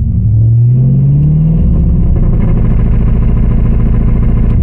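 A C5 Corvette's LS1 V8 is run up against the brakes in a stationary brake-torque test. The engine note climbs over roughly the first second and a half, then holds steady at high revs, heard from inside the cabin. The engine keeps its revs instead of being pulled down, a sign that brake torque management is now switched off.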